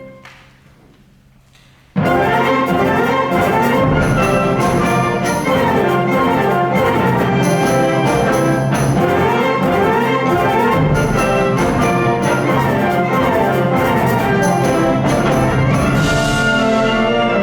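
School wind band playing: a held chord dies away into a short pause, then the full band comes back in suddenly about two seconds in, with brass and percussion, and plays on loudly.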